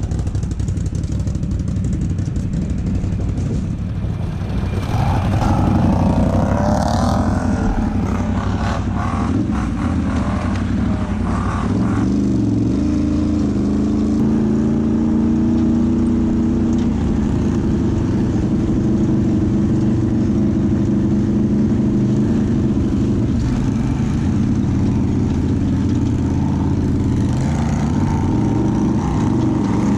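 ATV engine running under load as it is ridden, its pitch rising and falling with the throttle. From about 4 to 12 seconds in, a stretch of clattering, rushing noise rides over the engine.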